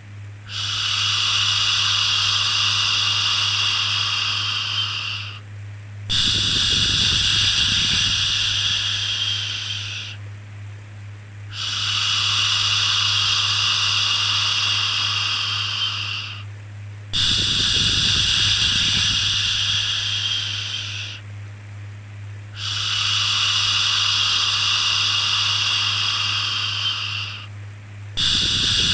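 Long, drawn-out 'shhh' shushing sounds of the kind used to soothe a baby, each lasting about five seconds with a short break between, repeating about every five and a half seconds. A steady low hum runs underneath.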